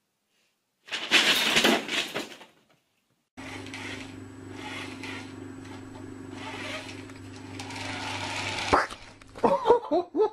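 A rustling burst lasting about a second and a half. After a short gap comes a steady small-motor hum with a hiss, which stops suddenly with a click. Short rising and falling voice sounds follow near the end.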